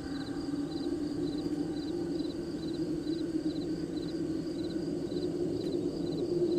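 Cricket chirping in short pulsed trills, repeating about two or three times a second, over a steady low hum.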